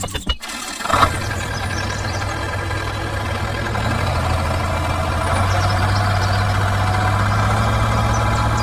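An engine running steadily with a low, even hum, after a short click about a second in; it gets a little louder about halfway through.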